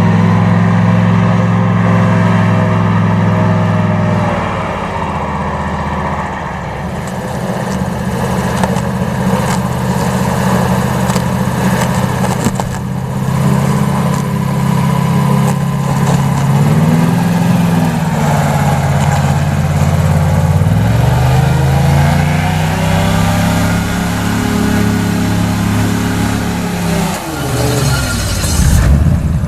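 Airboat's Toyota 3UR 5.7-litre V8 and six-blade propeller running at high revs, easing off after about four seconds, picking up and falling back twice, then held high for several seconds before dropping briefly near the end and coming back up.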